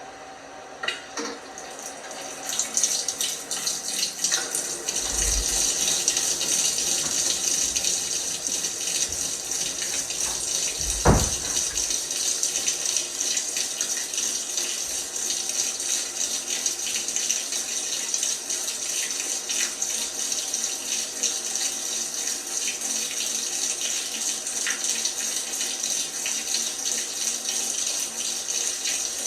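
LG washing machine filling: water rushing steadily into the drum, starting a couple of seconds in. A short low thump comes a few seconds later, and a sharp knock about a third of the way through.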